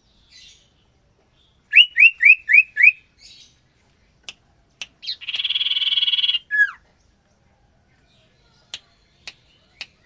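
Common ioras (cipoh) calling: a run of five quick rising whistled notes, then a buzzing rattle lasting about a second and a half that ends in a down-slurred note, then three sharp ticks near the end.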